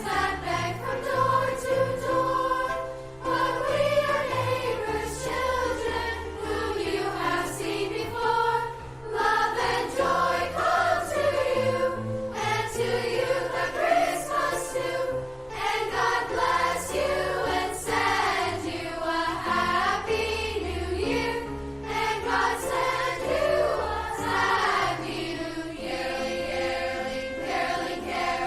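A choir singing, several voices in harmony over sustained low accompanying notes.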